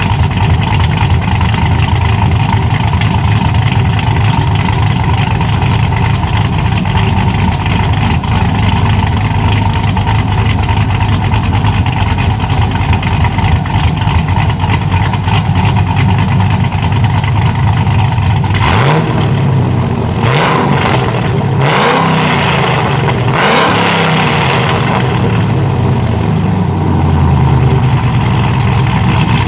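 Cammed 6.0-litre V8 of a 2006 Chevrolet SSR idling with the uneven beat of an aggressive camshaft. About two-thirds of the way through it is blipped four times in quick succession, each rev rising and falling, then it settles back to idle.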